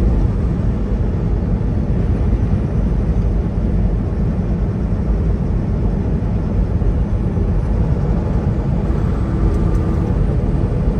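Semi truck driving at highway speed: steady low rumble of the diesel engine and road noise.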